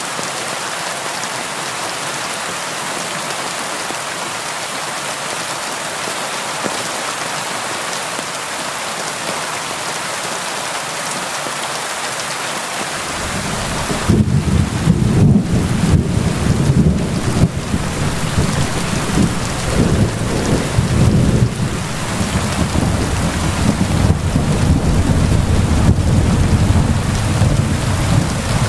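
Steady rain falling on a window glass. About halfway through, a long, low rumble of thunder rolls in and keeps going, swelling and easing, under the rain.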